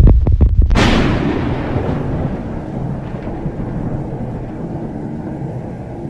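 A few heavy low thumps, then a deep boom about a second in that trails off in a long low rumble fading over the following seconds.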